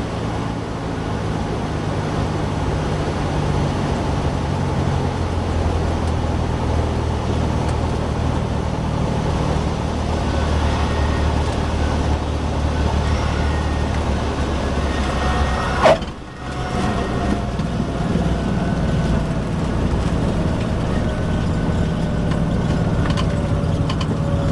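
Light aircraft's piston engine and propeller running during a landing, with airflow noise over them. The engine note changes about five seconds in, and a sharp knock comes about two-thirds of the way through.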